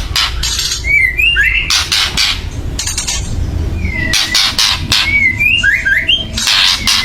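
White-rumped shama (murai batu) giving loud, harsh rasping chatter calls in short repeated bursts, alternating with quick whistled notes that slide up and down. This is the aggressive, agitated call used to rile other shamas into singing.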